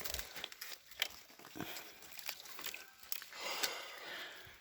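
Scattered light knocks, scrapes and rustles of someone clambering along a fallen tree trunk and through its branches, with a longer rustle about three seconds in.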